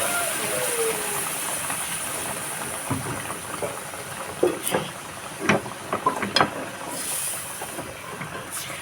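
Hot oil sizzling steadily as meat for crispy kare-kare deep-fries, with a cluster of sharp pops and crackles in the middle.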